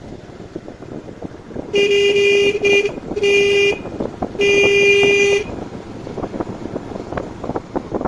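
Vehicle horn honking three times, a steady single-pitched tone; the first honk stutters briefly and the last is the longest, about a second. Road and wind noise runs underneath.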